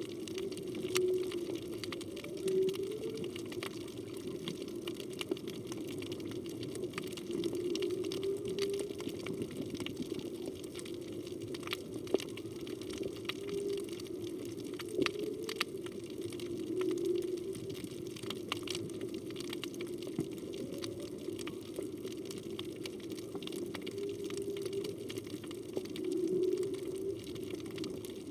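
Underwater reef ambience with a steady crackle of clicks, under a low moaning tone that wavers up and down in a series of calls every few seconds, which the diver takes for humpback whale song.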